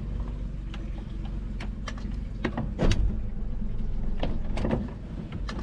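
Honda outboard motor running at low speed while the boat is manoeuvred in to park, with scattered sharp knocks and clicks over it, the loudest about three seconds in.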